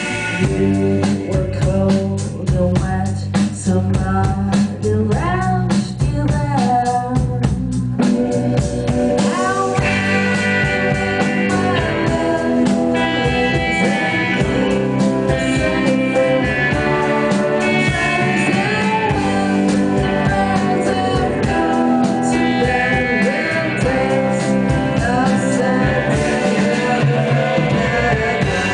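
A live rock band playing a song: electric guitar and bass over a steady drum-kit beat, with bending melodic lines through the first several seconds.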